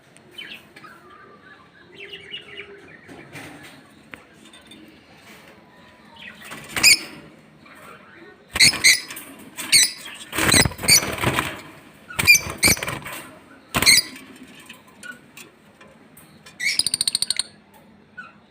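Pair of lovebirds calling: a series of loud, shrill bursts through the middle, then a rapid chattering trill near the end.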